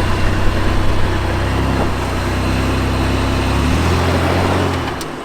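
Off-road vehicle's engine running steadily at low revs while crawling a rocky trail. The pitch rises slightly a little under four seconds in, and the sound drops away abruptly near the end.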